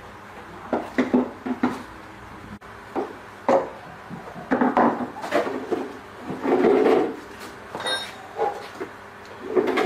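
Irregular knocks, clatter and scraping of hard objects being handled and moved about, about a dozen separate bumps.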